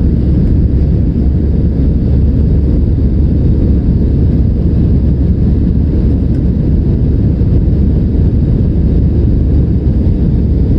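Steady low rumble of an aeroplane's engines and rushing air, heard from inside the passenger cabin.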